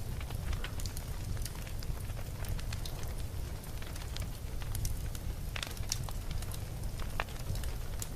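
Campfire burning, with a steady low rumble of flames and frequent sharp, irregular crackles and pops from the burning wood.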